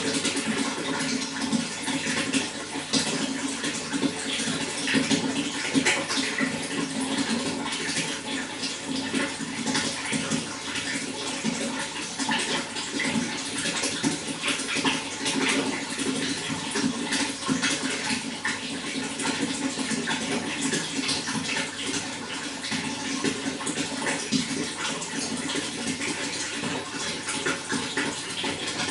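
Running water splashing and babbling steadily, with a constant rush and many small splashes.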